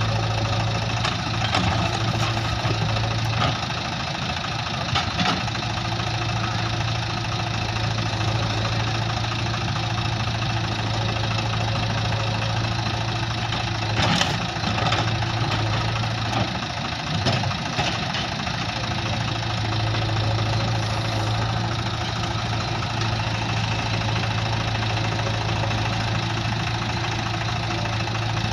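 Heavy diesel engine running steadily, with a deep, even hum and a few short knocks or clanks, one early and several around the middle.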